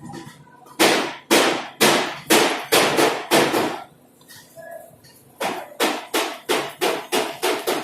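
A hammer striking metal repeatedly: about seven blows at roughly two a second, a pause, then a quicker run of about ten blows.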